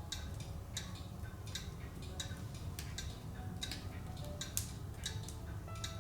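Larch logs burning in a wood stove, crackling with irregular sharp pops several times a second over a low steady rumble of the fire.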